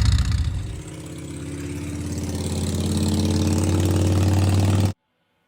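Motorcycle engine running, dropping back about a second in and then building steadily louder at a fairly even pitch before cutting off abruptly near the end.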